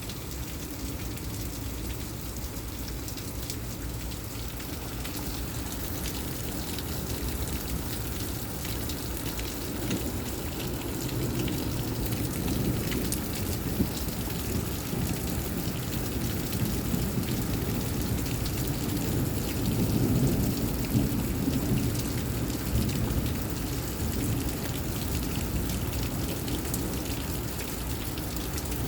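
Rain falling steadily in a severe derecho thunderstorm, with low rumbles of thunder that swell about a third of the way in and again louder about two-thirds through.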